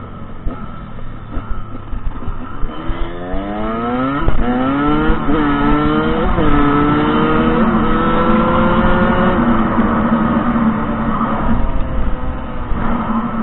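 Dirt bike engine heard from the rider's own bike, revving up hard about three seconds in and climbing through a series of quick gear changes, each shift briefly dropping the pitch. It then holds a high steady note and eases off near the end.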